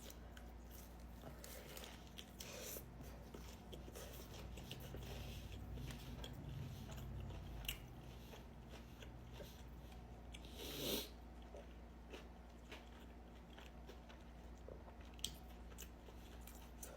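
Quiet chewing and crunching of crispy fried chicken, with many small wet clicks and crackles of mouth and food. There is one louder short sound about eleven seconds in.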